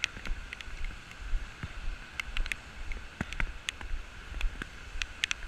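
Irregular sharp ticks of raindrops striking the camera, over a low rumble of wind on the microphone.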